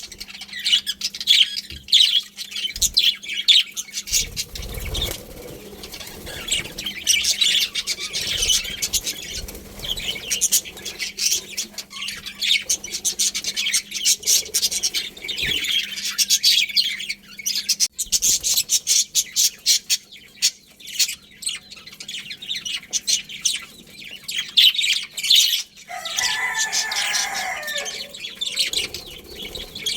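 A colony of budgerigars chirping and chattering continuously in quick, high calls. A lower-pitched call stands out about 26 seconds in and lasts about two seconds.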